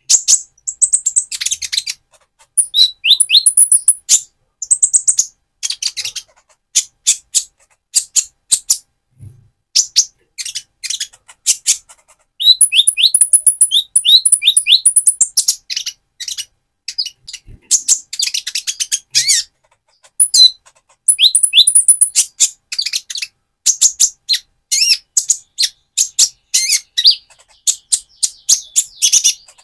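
A young, still-mottled van Hasselt's sunbird singing: runs of rapid, high, thin chirps and twitters in bursts of a second or two, with short pauses between.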